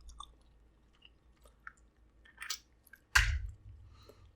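Close-miked chewing with soft, wet mouth clicks and squishes. There is a louder sudden noise with a low thump about three seconds in.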